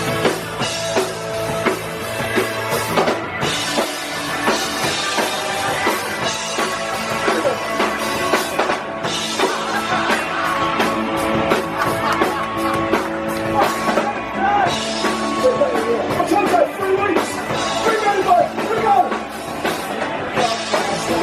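Live rock band playing a song on drums and guitars, loud and steady, with a wavering melodic line coming in from about the middle.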